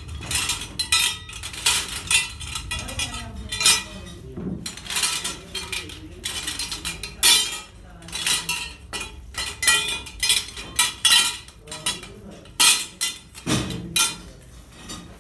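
Metal pieces clinking and clanking irregularly, several sharp knocks a second.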